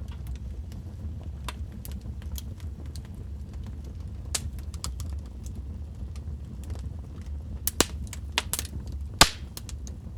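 Wood fire crackling in a fireplace: scattered sharp pops and snaps over a steady low rumble of the flames. The pops come thicker in the second half, two louder snaps standing out near the end.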